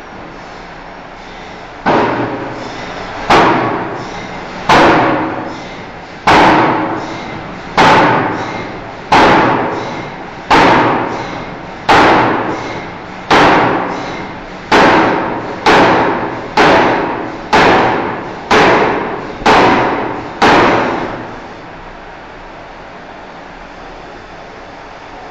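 Forging hammer striking a steel bar blow after blow, about sixteen heavy, ringing strikes. They come roughly every one and a half seconds and speed up to about one a second before stopping, over a steady workshop hum.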